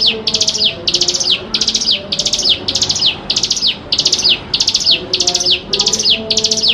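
Hill prinia (ciblek gunung) singing nonstop, a high, fast trilled phrase repeated about twice a second, each phrase ending in a quick falling note.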